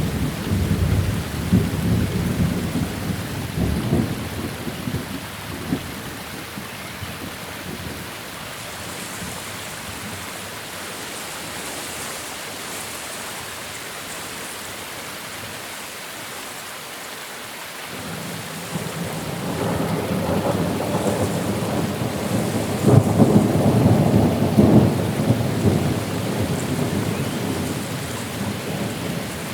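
Steady rain falling during a thunderstorm, with rolling thunder: one rumble dying away in the first few seconds, and another building about two-thirds of the way in, peaking, then fading.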